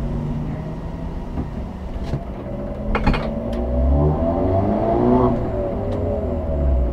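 Suzuki Swift's engine at low speed, heard from inside the cabin, humming as the car crawls. Its pitch rises and falls around four to five seconds in. A single sharp click comes about three seconds in.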